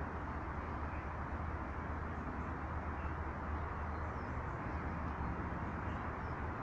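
Steady outdoor background rumble with a low hum, with a few faint high bird chirps.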